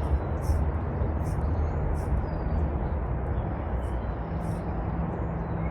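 Steady outdoor background noise with a low rumble, and faint short high chirps every half second or so.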